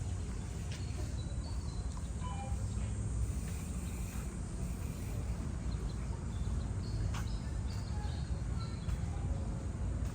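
Outdoor park ambience: a steady low rumble with short bird chirps scattered throughout and a few faint clicks.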